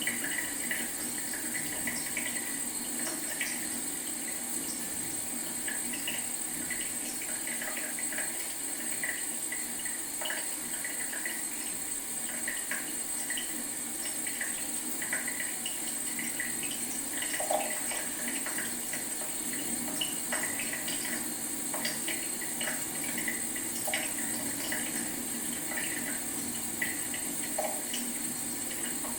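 Leaky faucet dripping into a sink: a steady watery trickle with many small, irregular drip plinks, a few of them sharper.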